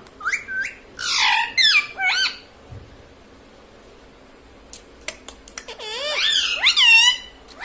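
Pet parrot squawking in rapid, warbling calls that glide up and down in pitch: a burst in the first two seconds, then a pause, then a longer run from about five and a half seconds in.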